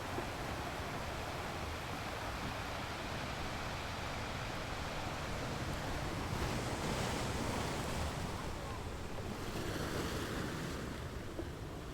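Ocean waves washing on a shore: a steady rush of surf, with a wave surging up about six seconds in and another around ten seconds in.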